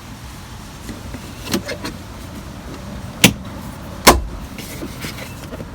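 A few sharp plastic clicks and knocks, three in all, the loudest about four seconds in: glove box panel clips being pushed and snapped into their slots in the dashboard.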